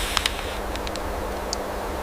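Steady noise with a low rumble and a faint steady hum, crossed by a few sharp little ticks: a pair shortly after the start, a small cluster about a second in, and one more near the end.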